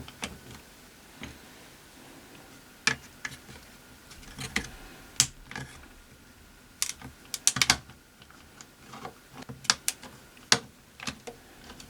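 Irregular small clicks and taps, in short clusters, of the opened Zenith Trans-Oceanic radio chassis and its parts being handled while getting at the dial lamps.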